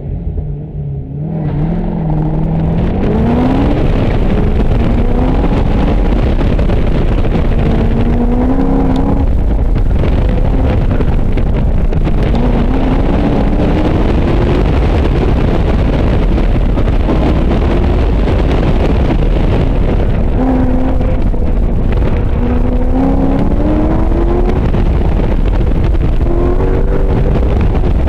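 Car engine pulling hard from a start about a second in, then its pitch climbing and dropping over and over as the car accelerates and slows through the course, over loud steady road and wind noise.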